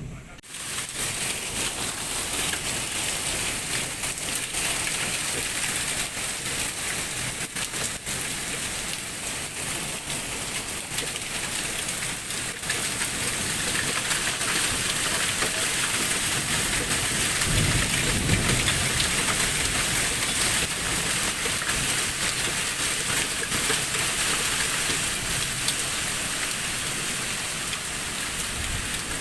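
Heavy rain pouring steadily in a thunderstorm, a dense patter of drops striking hard surfaces. A short low rumble comes a little past halfway.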